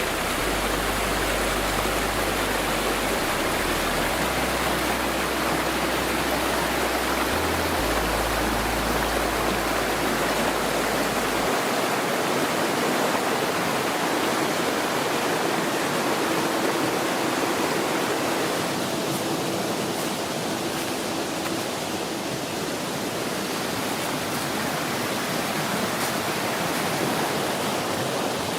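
Rushing water of a fast stream: a steady, even noise. A low rumble sits under it for the first eleven seconds or so, then stops.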